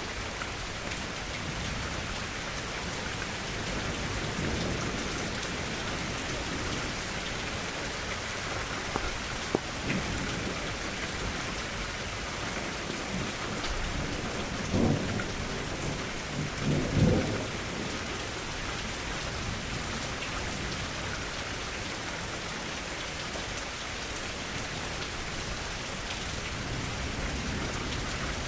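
Steady rain falling, with a couple of sharp drop-like taps about a third of the way in. A little past halfway, two low rumbles of thunder swell up in quick succession, the second the louder.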